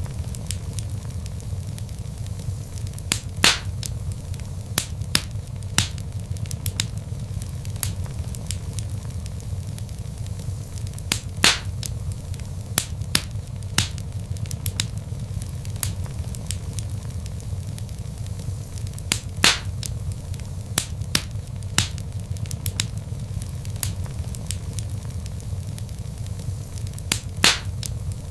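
Wood fire in a fireplace burning steadily with a low rumble, crackling with irregular sharp pops, a few louder ones every several seconds.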